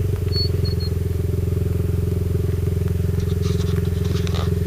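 Motorcycle engine idling steadily, with an even, rapid pulsing.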